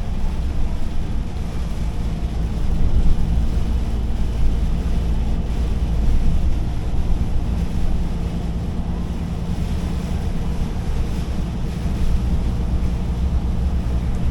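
Truck driving: the diesel engine's steady low rumble and road noise, with a hiss of wind over it.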